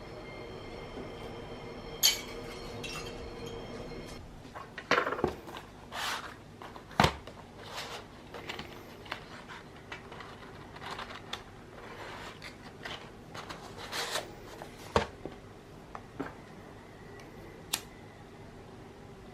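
Objects being handled: a series of irregular sharp clicks and knocks, with a faint steady hum over the first few seconds.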